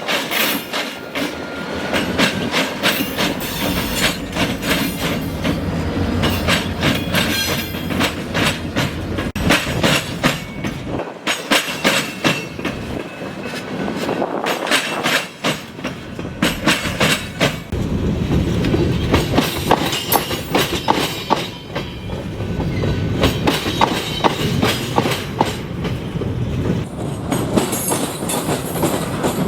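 Freight train rolling over a rail diamond crossing, its wheels clattering in a fast, continuous run of sharp clanks over a steady low rumble.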